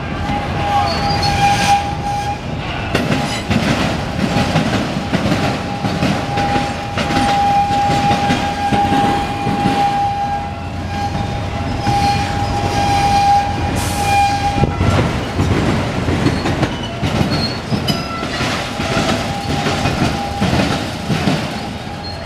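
Freight train's autorack cars rolling past, steel wheels clattering over rail joints, with a steady high squeal over the rumble that stops about two-thirds of the way through.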